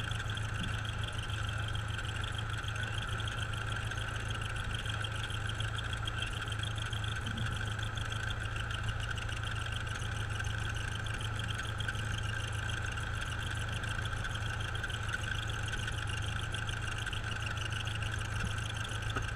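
Cessna's piston engine and propeller running at a steady speed with the aircraft held on the brakes, heard from inside the cockpit. The sound stays even with no change in pitch.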